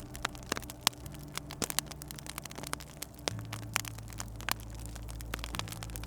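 Wood fire crackling in a fireplace, with frequent irregular sharp pops. Beneath it runs a low sustained drone that shifts to a new pitch every couple of seconds.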